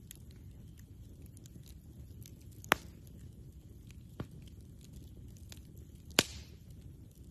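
Wood campfire crackling with many small ticks and three sharp pops, the first and last much the louder, each a second and a half to two seconds apart.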